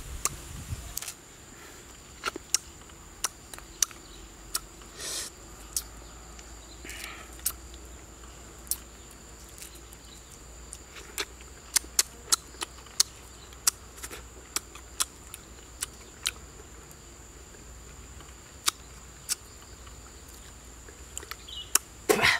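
Wet clicks and smacks of a mouth chewing honeycomb, coming irregularly with a few quick runs, over a faint steady high-pitched insect drone.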